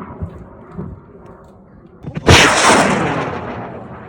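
Fading rumble of an amateur high-power rocket's solid motor. About two seconds in, a sudden loud boom dies away slowly over the following two seconds.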